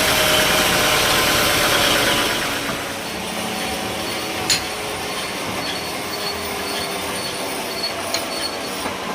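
Sawmill machinery running: a loud, high, hissing cutting noise for the first two seconds or so fades to a quieter steady running, with a sharp click about halfway through and a couple of small ones near the end.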